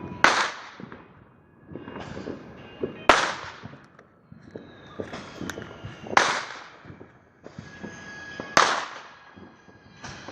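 Consumer firework going off: four loud bangs about every two and a half to three seconds, each trailing off in a hiss, with crackling and fizzing between them.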